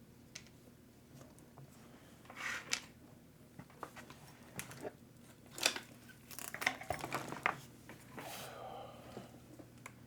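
Irregular clicks, taps and short scrapes of small hand tools and hard plastic and metal parts being handled on a workbench during disassembly of an RC truggy, with a longer scrape near the end. A faint steady low hum runs underneath.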